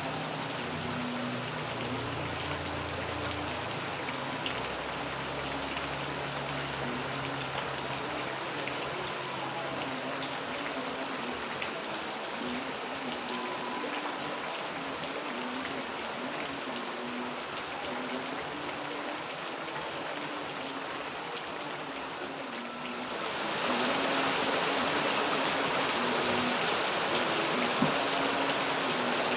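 Steady rain falling and pattering, with a faint low hum early on. About 23 seconds in it abruptly becomes louder and hissier.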